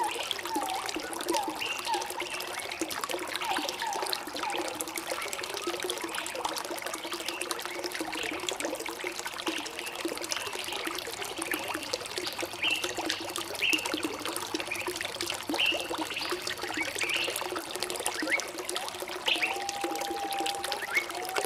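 Water trickling and splashing steadily, like a small stream, with short bird chirps scattered throughout and one longer whistled note near the end.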